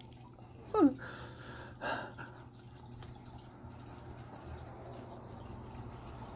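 A short vocal sound falling in pitch about a second in, then quiet mouth sounds of a man biting into and chewing a white fudge-covered Oreo cookie.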